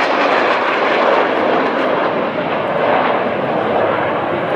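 Jet noise from a formation of Northrop F-5E Tiger II fighters, each with twin J85 turbojets: a loud, steady rushing sound with a slight dip about two seconds in.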